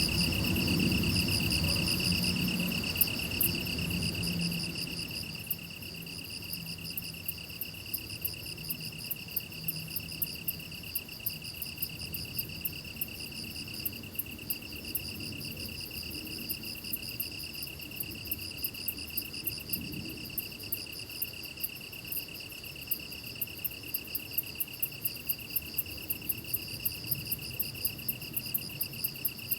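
Grass insects chirping: a steady, rapidly pulsing high trill from crickets, layered with a train of sharp, very high ticks from another insect that grows more regular toward the end. A low rumble underneath fades out about five seconds in.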